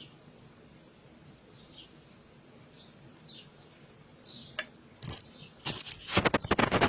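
Small birds chirping with short, high calls, then from about five seconds in a rapid run of loud, sharp knocks and clatter.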